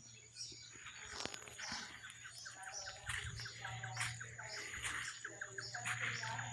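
Wild birds singing and chirping, several calls overlapping, with quick runs of short repeated notes.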